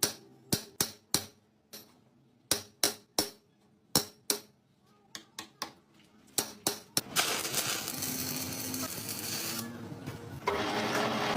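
Sharp metal-on-metal taps and clinks, irregular, about two a second, then a steady machine noise from about seven seconds in that dips briefly and picks up again near the end.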